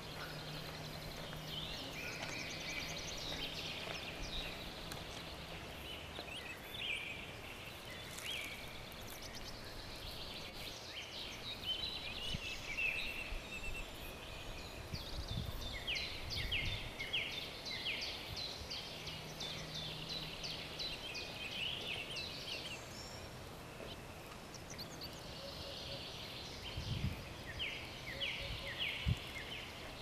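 Outdoor ambience of birds chirping in repeated high phrases, with a few low thumps of footsteps near the middle and near the end.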